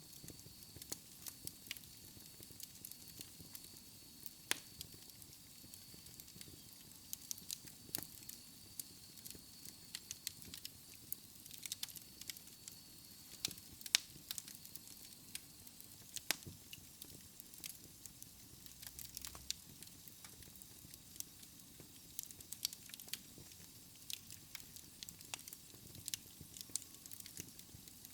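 Wood fire crackling in a fireplace: irregular sharp pops and snaps over a soft steady hiss. A faint high whine runs through the first half, and one pop about halfway through is louder than the rest.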